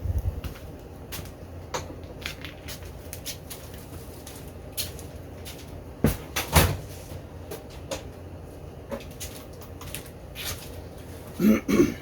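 Scattered knocks and clicks of metal parts being handled during workshop assembly. The loudest knocks come about six seconds in and again near the end, with a brief squeak.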